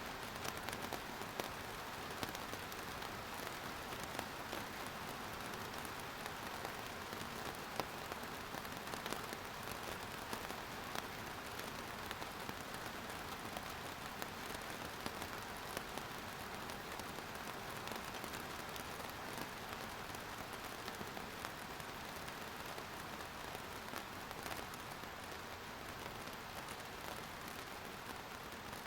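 Steady rain falling on surfaces, a continuous even hiss with scattered individual drop ticks.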